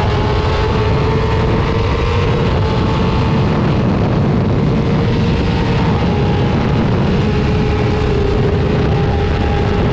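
Superbike engine running at high revs, its single steady tone climbing slowly in pitch, under a heavy, even rushing noise.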